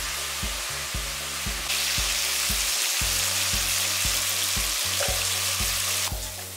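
Shallots, tomatoes and spices being sautéed in groundnut oil in a pan, sizzling as they are stirred. The sizzle grows louder about two seconds in and falls back near the end.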